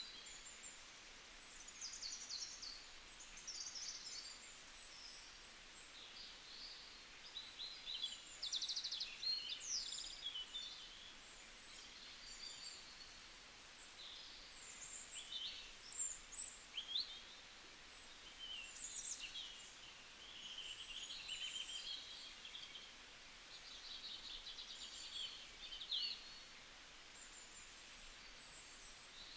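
Several small songbirds chirping and trilling, short high calls overlapping one another throughout, over a faint steady hiss.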